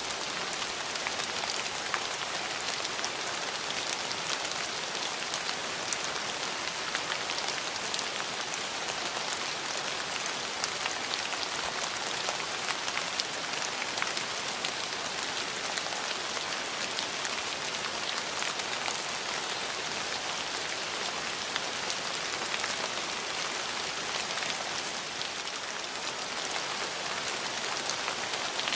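Steady rain falling, a constant hiss with many separate drop ticks scattered through it.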